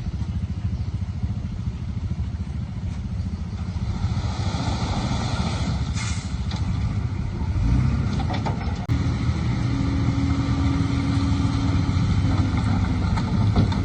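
Heavy diesel engine of earth-moving machinery running steadily, its load rising about four seconds in and again near eight seconds. A steady whine is held over it from about nine to twelve seconds.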